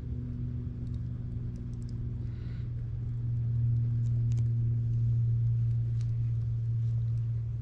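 Campfire crackling, with scattered sharp pops and ticks, over a steady low hum that is the loudest thing throughout.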